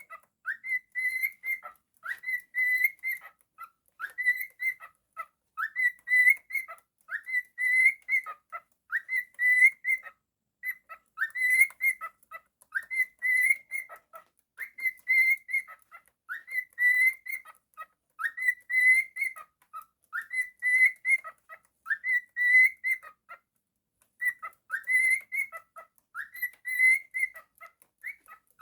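Cockatiel whistling the same short phrase over and over, about once a second: each one a quick upward slide into a held high note.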